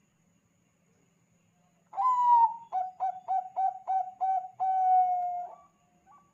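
Zebra dove (Thai-bred 'perkutut bangkok') cooing: about two seconds in, one long note, then a quick run of about six short coos and a long, slightly falling closing note.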